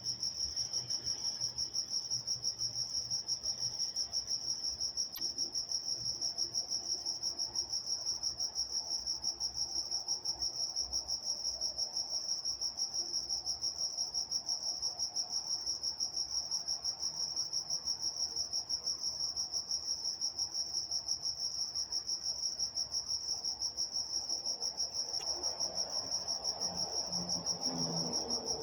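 Crickets chirping in a steady night chorus: one high, even, fast-pulsing trill that does not let up. A faint low rumble swells under it near the end.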